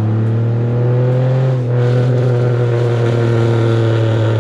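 Straight-piped 3800 V6 exhaust of a Pontiac Bonneville pulling under load, a loud, steady drone that rises slightly in pitch over the first second and a half, then holds level. The engine is firing smoothly on fresh spark plugs, with no misfire.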